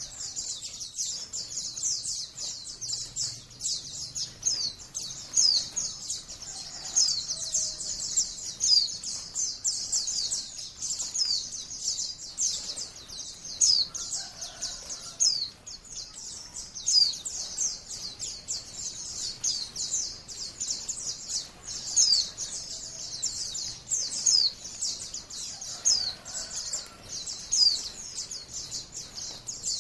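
White-eye (Zosterops, 'pleci') song: a fast, unbroken stream of high, thin chirps and quick down-slurred notes in the long 'ngalas' style.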